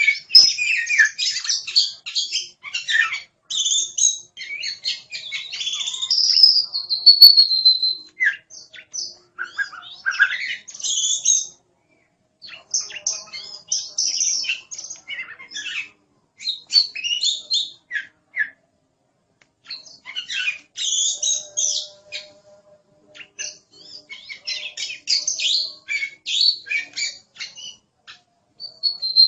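Oriental magpie-robin (kacer) singing loudly and continuously: rapid, varied chirps, trills and whistled phrases, including a long falling whistle, broken by a few short pauses.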